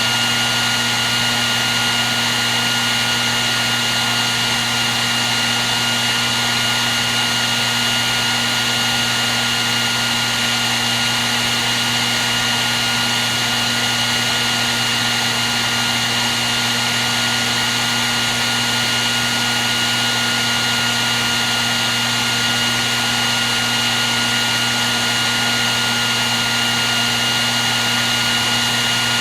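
Hair dryer running steadily: a constant rush of blown air with a low motor hum and a high whine held at one pitch.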